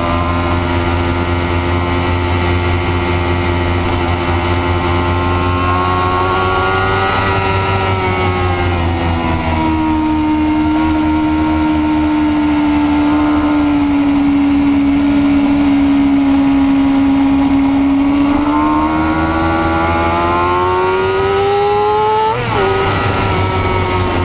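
Racing motorcycle engine at high revs, heard from an onboard camera, held fairly steady through long corners, then climbing in pitch and dropping abruptly at an upshift near the end. A steady low wind rush on the microphone runs underneath.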